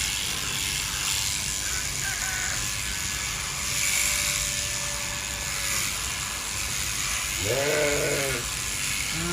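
Large electric sheep-shearing clippers running with a steady buzzing hiss, and a sheep bleating once near the end.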